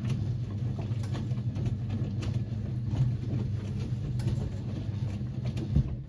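Siemens WA4600 washing machine running a wash, its drum motor humming steadily as the drum turns a load of jeans, with scattered clicks and knocks from the tumbling load. The motor stops abruptly near the end.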